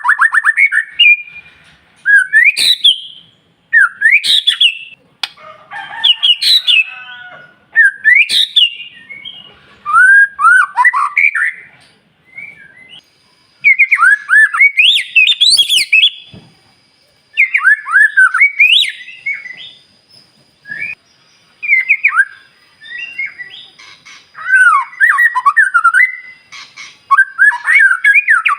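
White-rumped shama (murai batu) singing: loud phrases of quick, sweeping whistles and chirps, each a second or two long, broken by short pauses.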